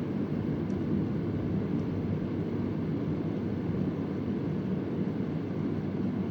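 Vintage Convair oscillating fan running: a steady, low rush of air. Two faint ticks come about a second apart near the start.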